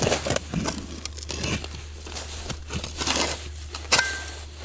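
Irregular crunching, rustling and crackling of soil and debris being dug through and pulled apart, with a sharp click about four seconds in.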